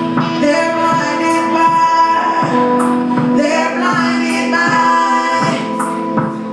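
Live electronic pop band performing, with a female lead voice singing over sustained synth tones and a steady beat, its high hi-hat-like hits falling about once every 0.7 seconds.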